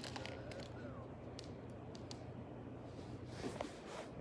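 Quiet room tone: a steady low hum with a few faint clicks, the most distinct about three and a half seconds in.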